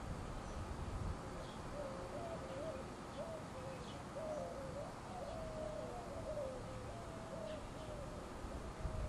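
A bird calling: a long run of short, low, wavering whistled notes starting about two seconds in, with a few faint high chirps now and then over steady outdoor background noise.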